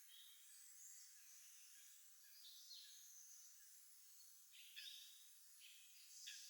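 Faint spring birdsong: several songbirds giving short chirps and calls, with a few quick downward-sweeping notes over a light hiss.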